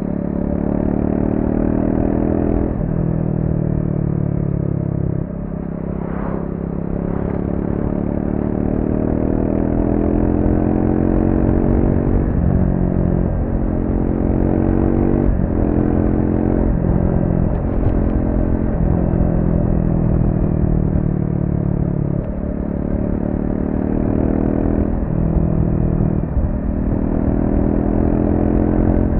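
Triumph Speed 400's single-cylinder engine on its stock exhaust, ridden through corners: the engine note climbs under throttle and drops back again and again in steps, with a run of quick drops and recoveries about two-thirds of the way through.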